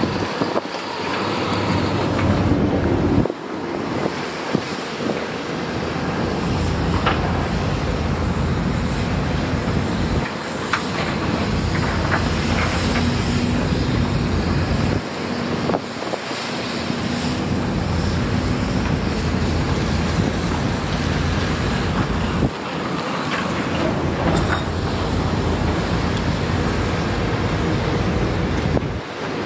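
Heavy earthmoving machine's diesel engine running steadily under work, with its note dipping briefly a few times.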